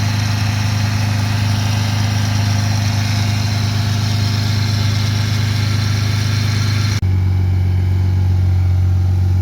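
Car engine running at a steady speed, with no revving; about seven seconds in the sound breaks off for an instant and carries on slightly different in tone.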